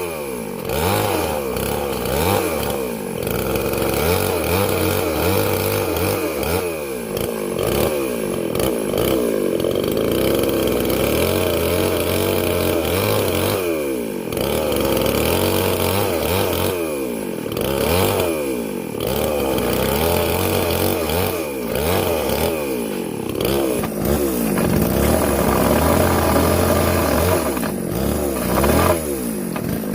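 A small engine running continuously, its pitch repeatedly rising and falling every second or few as it is revved and eased off.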